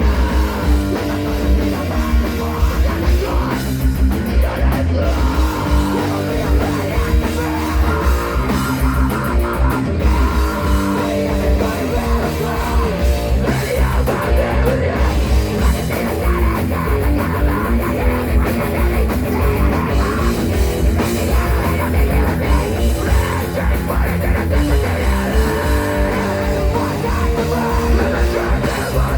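Live rock band playing a loud song with guitar, bass and a steady beat.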